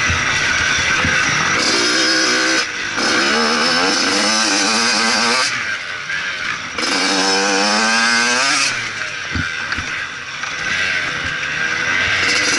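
Motocross bike engine at close range, revving up twice with a rising pitch as the throttle is opened, dropping back in between and after.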